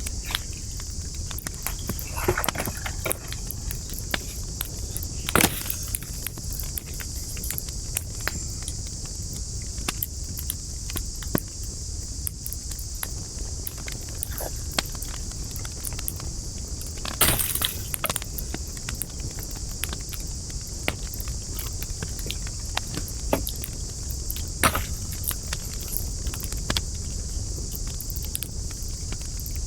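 Wood fire burning, crackling with many small sharp pops over a steady high hiss and low rumble. A few louder pops come about five seconds in, past halfway, and again later.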